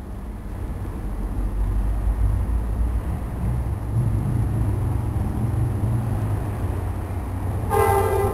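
An approaching train's low rumble, growing louder over the first couple of seconds and then holding steady. Near the end its horn starts to sound.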